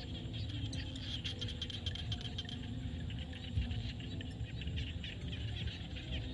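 Chorus of frogs calling, many overlapping low croaks under a dense layer of rapid high clicking calls.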